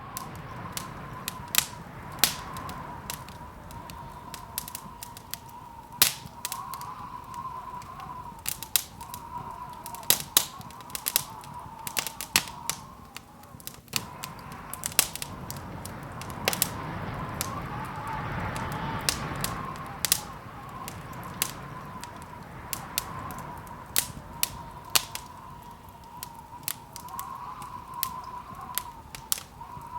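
Wood fire crackling in a fireplace: irregular sharp pops and snaps over a steady low rush.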